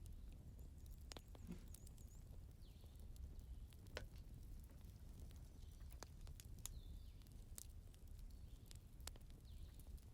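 Wood fire crackling faintly in a fireplace: irregular small pops and snaps over a low, steady rumble.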